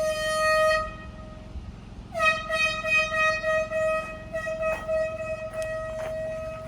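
Air horn blasting twice: one blast ends about a second and a half in, then a long steady blast of about four and a half seconds weakens toward the end, which the owner takes for the horn running out of air.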